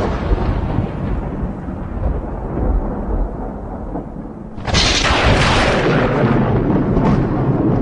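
Thunder: a deep rolling rumble fades over the first few seconds, then a second sudden sharp clap breaks a little past halfway and rumbles on.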